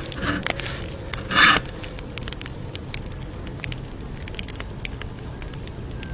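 Campfire crackling: a steady low rumble of burning with many small sharp pops scattered through it. Two brief louder rushing sounds stand out, one just after the start and a stronger one about a second and a half in.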